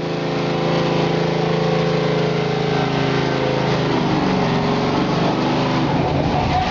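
Modified gas pulling truck's engine running at a steady pitch, then its pitch wavers and bends from about four seconds in.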